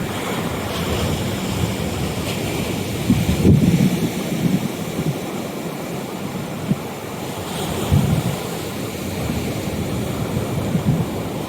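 Rough sea waves surging and splashing against a seafront promenade and its steps at high tide, with wind buffeting the microphone. The loudest surges come about three seconds in and again around eight seconds.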